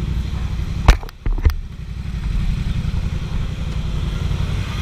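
Motorcycle engine running with a steady low, pulsing rumble. About a second in there is a sharp knock, the sound dips briefly, and a second knock comes about half a second later.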